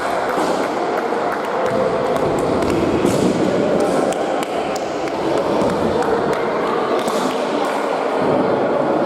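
Futsal match in a sports hall: a steady hubbub of children's voices with many short, sharp knocks and thuds of the ball being kicked and bouncing on the hard floor.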